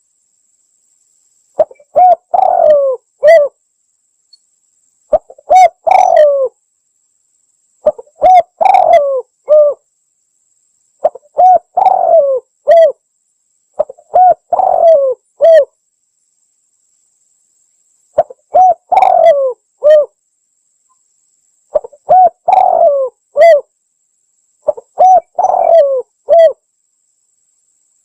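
Spotted dove (tekukur) cooing: about eight phrases of several short coo notes each, repeated every few seconds with dead silence between them, as in a bird-lure call recording.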